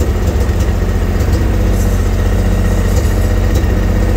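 Old carbureted car engine on Solex carburetors idling just after a cold start, running a little unevenly with a sputtering mutter ("butsu-butsu").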